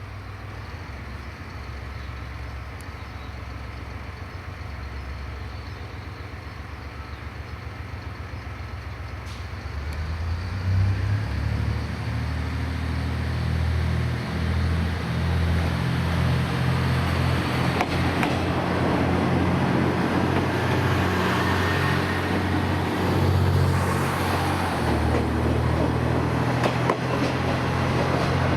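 Diesel railcar's engine idling, then opening up about ten seconds in as the train pulls away and runs under power, with a few sharp clicks later on.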